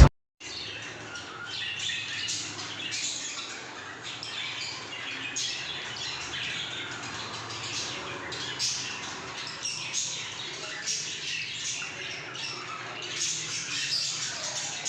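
Many birds calling over one another: a dense, continuous chatter of short high calls.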